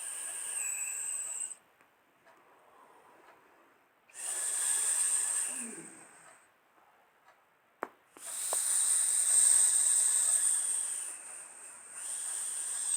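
Jet engine noise: a high, steady turbine whine over a hissing rush, heard in three stretches with near-silent gaps between them, and a sharp click about eight seconds in.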